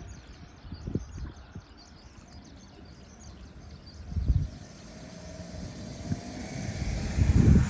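Wind gusting on the microphone, with small birds chirping faintly at first. In the last couple of seconds a hiss and hum rise steadily as a JR 211-series electric train approaches along the track.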